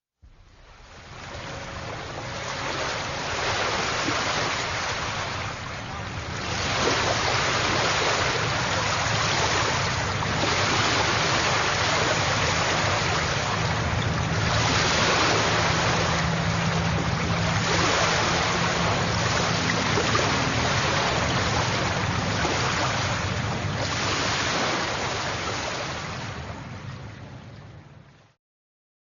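Sea surf, waves washing in with a swell every few seconds. It fades in at the start and fades out near the end.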